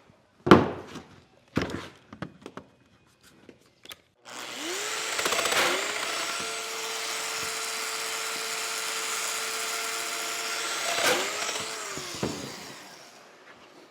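A few knocks of wood being handled, then a handheld electric power tool spins up with a rising whine and runs steadily for about seven seconds. It briefly dips and picks up again before winding down.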